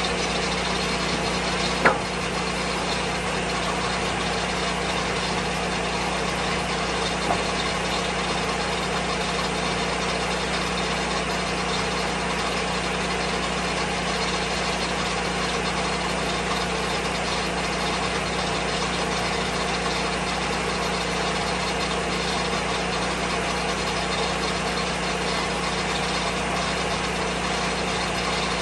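Engine of a Lucas Mill 10-30 swing blade sawmill running at a steady speed, with two sharp knocks: a loud one about two seconds in and a smaller one a few seconds later.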